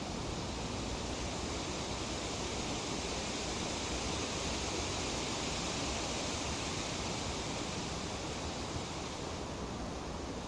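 Breeze rustling through tree leaves: a steady hiss that swells slightly in the middle and eases again near the end.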